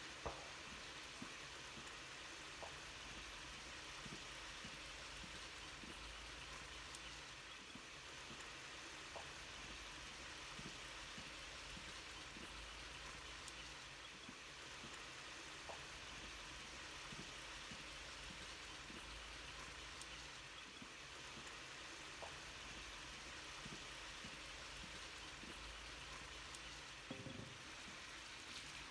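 Chicken sizzling in a pan: a faint, steady hiss with scattered small pops.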